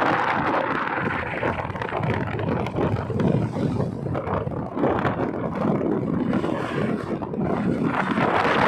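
Wind buffeting the microphone of a moving motorcycle, a loud, fluctuating rush with road and engine noise underneath.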